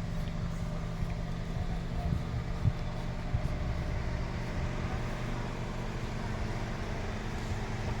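A car engine running steadily with a low hum, with a few short knocks about two to three and a half seconds in.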